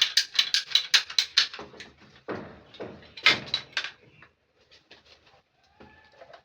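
Rapid clicking of a hand cutter being worked, about seven clicks a second, stopping about a second and a half in. A couple of louder snaps follow, then only faint scattered ticks.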